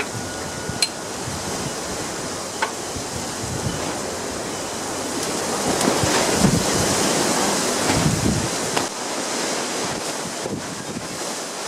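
Wind gusting over the microphone, a steady rush with low rumbling buffets that swell about halfway through. A couple of faint clicks sound in the first few seconds.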